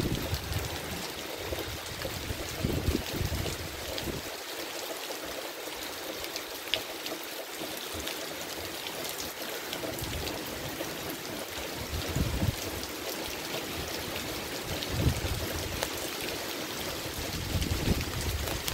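Heavy tropical rain pouring onto trees and palm fronds, a steady hiss. Gusts of wind rumble on the microphone now and then, strongest at the start and again around 10, 12 and 15 seconds in.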